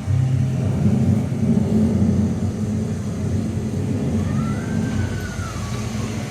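Street traffic: a steady low rumble of passing cars. About four seconds in, a faint high tone rises and falls.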